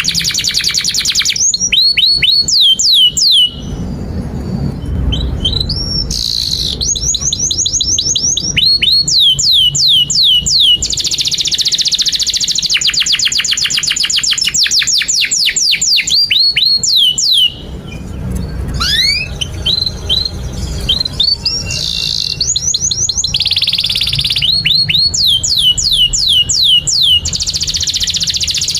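Domestic canary singing a long, continuous song: very fast trills alternate with runs of quick downward-sliding whistled notes, phrase after phrase with only short breaks.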